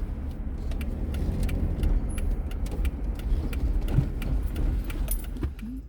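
Car engine and road rumble heard from inside the cabin: a steady low drone with scattered light clicks and rattles. The rumble drops away near the end.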